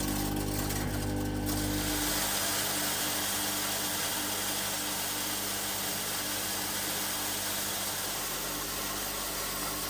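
A small electric motor runs steadily. It starts as a low hum with a tone in it, and about two seconds in it settles into an even, hissing whir.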